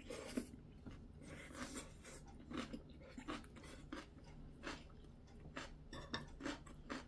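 A person chewing a mouthful of crunchy stuffed cucumber kimchi (oi-sobagi), faint, regular crunching chews a bit more than once a second.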